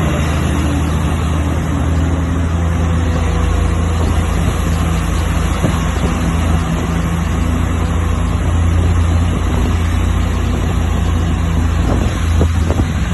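Heavy diesel truck engine pulling uphill under load: a loud, steady, deep drone.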